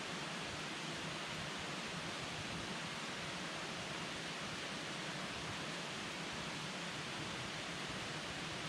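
Campfire burning with a steady, even hiss and rush of flames and no distinct pops.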